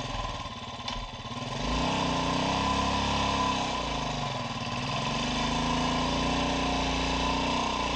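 Royal Enfield Classic 500's single-cylinder engine revved up and down several times, louder from about two seconds in, as the bike struggles for grip in slippery mud.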